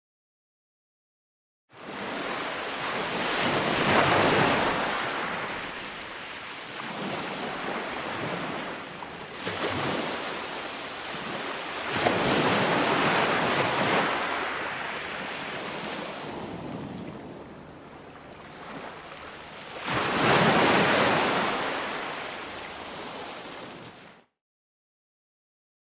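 Ocean waves breaking on the shore, the surf building and fading in three swells about eight seconds apart. The sound starts after two seconds of dead silence and cuts off suddenly into silence near the end.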